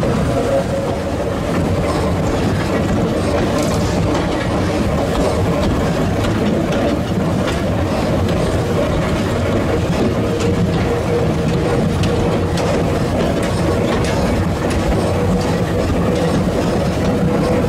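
Narrow gauge train hauled by an overhead-wire electric locomotive running steadily, its wheels rumbling and clicking over the rails, with a steady whine held throughout.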